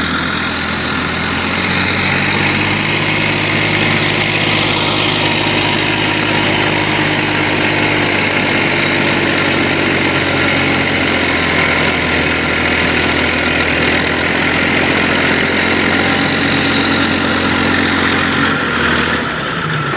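Tractor engine running steadily at a constant low speed, an even idling drone.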